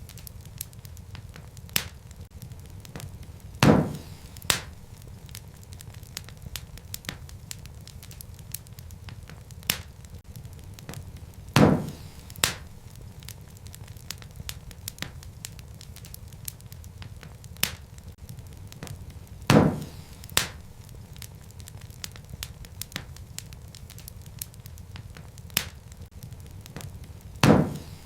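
Wood fire crackling: a steady low rumble of flames under frequent small crackles. About every eight seconds a louder pop sounds, each followed by a second pop less than a second later.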